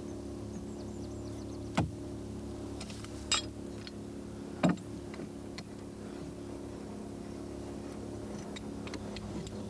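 A steady mechanical hum with several fixed tones, broken by three sharp knocks in the first half and a few faint clicks near the end.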